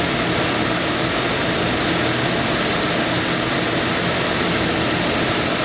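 Jeep 4.6-litre stroker inline-six running steadily at idle on an engine dyno, with a wide even rush of noise over its low hum.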